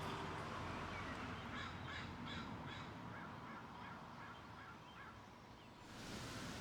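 A bird calling a quick series of about ten short notes, roughly three a second, that stops about five seconds in.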